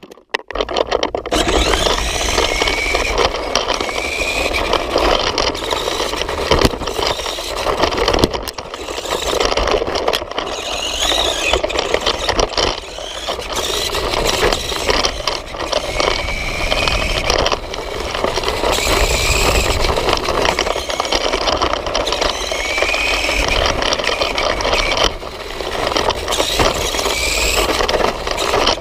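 Nikko RC Kawasaki toy motorcycle running, heard from a camera mounted on the bike itself. Its electric motor and gears whine, rising and falling in pitch again and again as it speeds up and slows, over a steady rattling, scraping drive noise.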